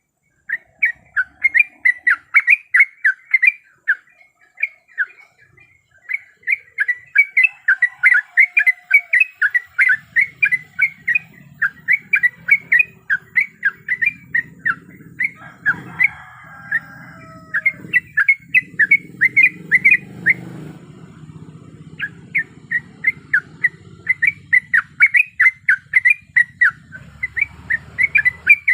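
Yellow-vented bulbul (trucukan) calling in fast runs of short, sharp chattering notes, broken by a few brief pauses. A faint low rumble sits underneath from about a third of the way in.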